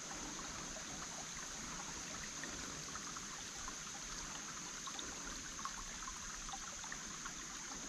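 A small creek trickling over rocks: a steady, fairly faint water sound with scattered tiny splashes and drips, under a steady high-pitched hiss.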